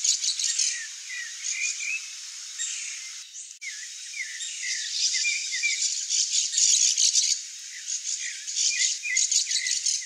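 Small birds calling: short chirps over a dense, high, rattling chatter, with a brief break about three and a half seconds in.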